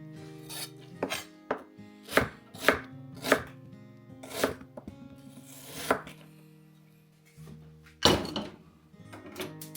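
A kitchen knife chopping on a cutting board: about a dozen sharp, uneven strokes, the loudest about eight seconds in, with a brief scraping hiss just before six seconds.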